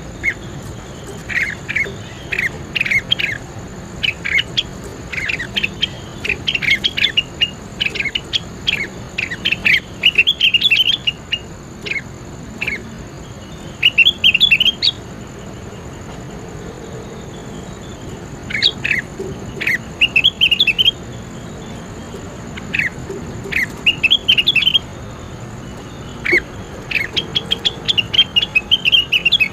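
Cucak wilis songbird singing in bursts of rapid, sharp chattering notes with short pauses between phrases, over a faint steady high-pitched hiss.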